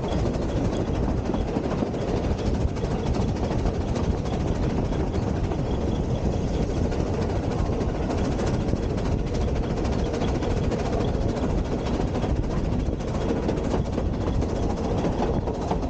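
Steam-hauled narrow-gauge passenger carriage running along the line, heard from an open carriage window: a steady, loud rumble and rattle of wheels on rail and the coach body.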